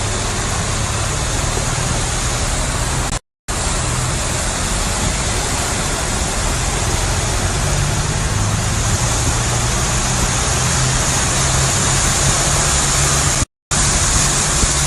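Car driving in the rain: a steady loud rush of road and rain noise over a low hum, cutting out briefly twice.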